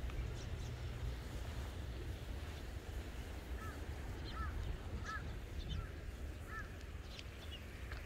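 A bird calling a run of about six short, arched notes, starting about three and a half seconds in, over a steady low rumble.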